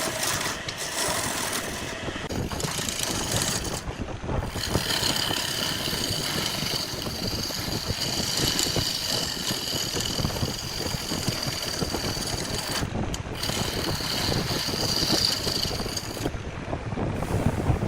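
Homemade chainsaw's engine running steadily. A high, steady whine joins it about four seconds in, breaks briefly, and drops out near the end.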